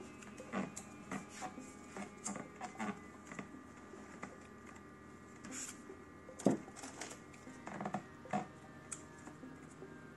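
Irregular light clicks and taps of copper winding wire and slot insulation being handled while a coil is fitted into an electric motor's stator, with one sharper knock about six and a half seconds in.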